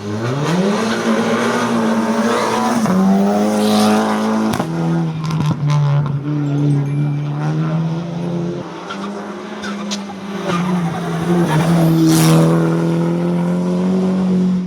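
Race car engine accelerating hard on a hill-climb course: the pitch climbs, drops at two upshifts about three and four and a half seconds in, then holds high revs, swelling again near the end.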